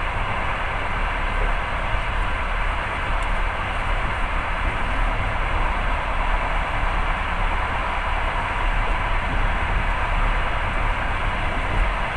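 Passenger train running at speed, heard from inside the carriage: a steady, even noise of the wheels on the rails, with no distinct clacks standing out.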